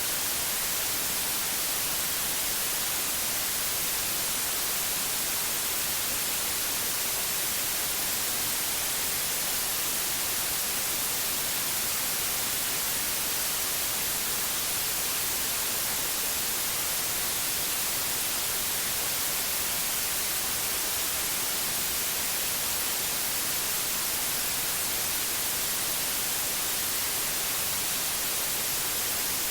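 Synthetic white noise: a steady, even hiss, brightest in the high treble, with no change or interruption.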